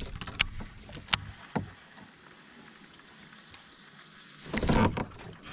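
A few light knocks against the kayak, then a short burst of water splashing near the end as a hooked chain pickerel thrashes at the surface beside the boat.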